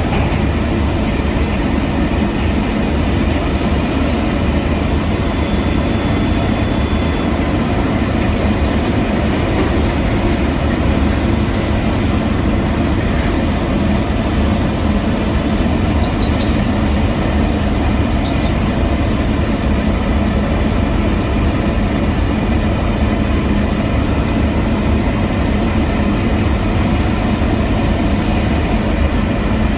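Heavy diesel road-construction machinery running steadily, a constant engine sound with no breaks.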